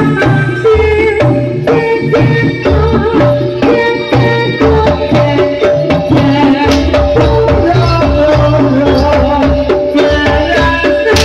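Live jaranan (kuda lumping) accompaniment: a loud Javanese folk ensemble of hand drums and melodic instruments playing a quick, steady rhythm.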